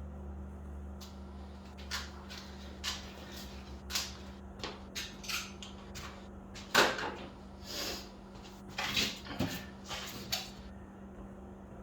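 Work gloves being pulled on: a string of short rustles and sharp snaps, the loudest about seven seconds in, over a steady low hum.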